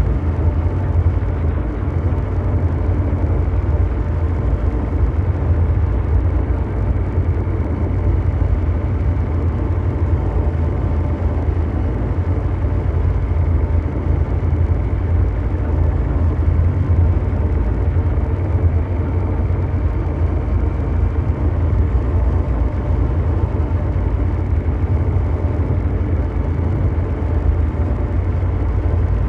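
Continuous mechanical drone: a steady deep rumble of brown-noise-like hum, heaviest in the bass, with faint steady tones over it and no change.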